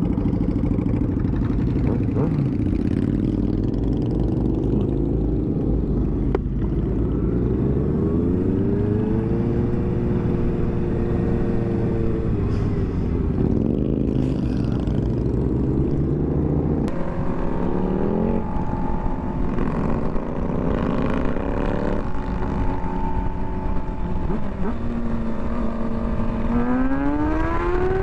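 Motorcycle engine under way, its pitch climbing with the throttle and dropping sharply at several gear changes, then rising steeply again near the end.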